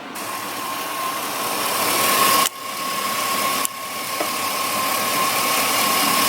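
An engine running steadily at idle, with a thin steady whine through it, cut by two sudden brief drops about two and a half and three and a half seconds in.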